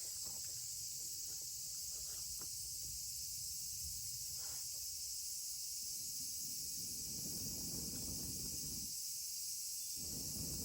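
A steady, high-pitched chorus of insects, with a few faint clicks early on. A patch of low rustling noise comes in during the second half, drops out briefly and returns.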